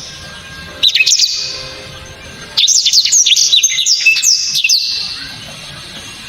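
Black-throated canary (blacktrod) singing: two bursts of loud, sharp, rapid high whistled notes, a short phrase about a second in and a longer one of about two seconds in the middle.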